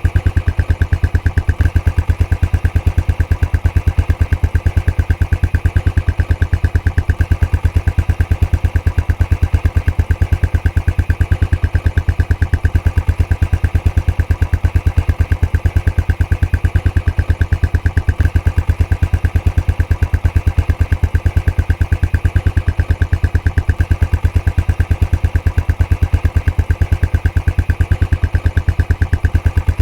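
Royal Enfield Classic 500's single-cylinder engine idling through its stock exhaust, a steady, even thump of exhaust beats.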